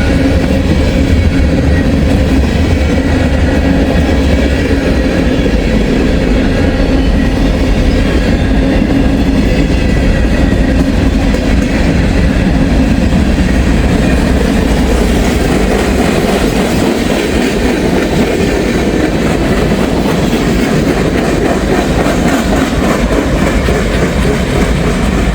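Freight train cars rolling past close by: a loud, steady rumble and clatter of wheels on the rails, the deepest rumble easing about two-thirds of the way through.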